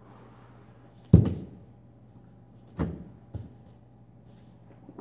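Dull thuds of a body landing on the floor during a failed contortion move: a loud one about a second in, then two softer ones near the middle.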